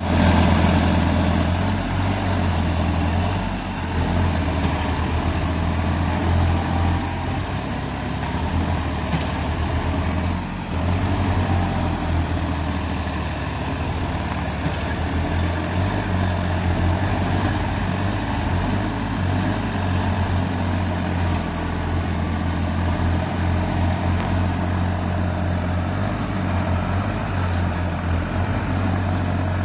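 Diesel tractor engine running steadily under load, a deep even drone that wavers slightly in level.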